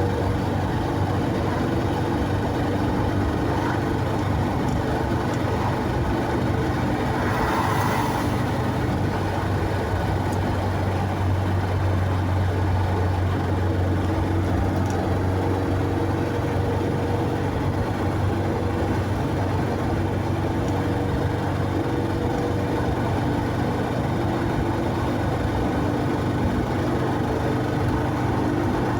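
Steady drone of a car's engine and road noise while driving, with a brief rush of noise about eight seconds in.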